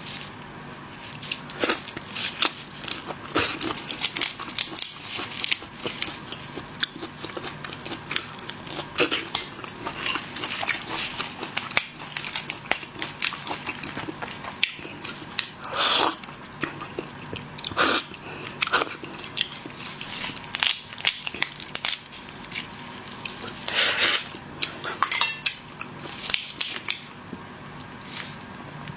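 Close-up eating of shellfish: biting and chewing, with shells cracking and crunching in many irregular sharp clicks and crackles.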